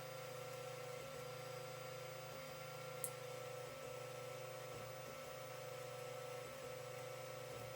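Creality CR-10 3D printer's stepper motors whining at one steady pitch during a print, broken briefly about once a second, with one sharp click about three seconds in.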